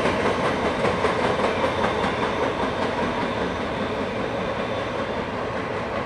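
Tail end of a freight train rolling away into a tunnel: steady rumble and clickety-clack of the wheels on the rail, fading a little near the end.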